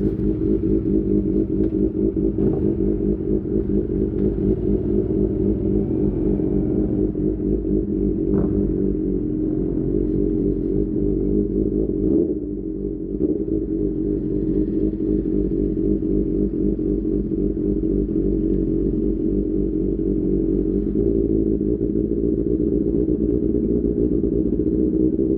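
QJMotor SRK600's inline-four engine running through an Austin Racing exhaust, holding a steady note while riding, with a brief dip in level about halfway through as the throttle is eased off.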